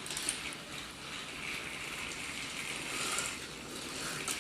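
Battery-powered Trackmaster toy train engines running on plastic track: a steady whirring and rattling of their small geared motors and wheels, with a few light clicks.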